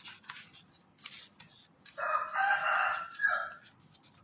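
A rooster crowing once, a single call of about a second and a half starting about two seconds in, over faint scattered clicks.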